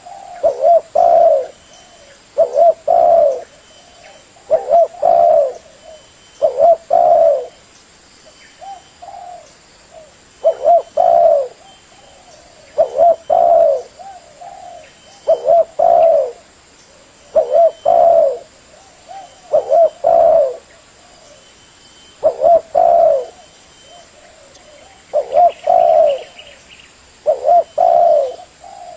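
Spotted dove (tekukur) cooing: the same short phrase of a few low coos repeats over and over, about one phrase every two seconds.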